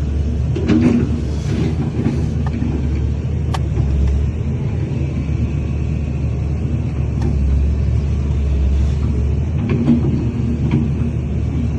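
Heavy diesel earthmoving machinery running steadily with a low rumble, with a few sharp metallic clanks.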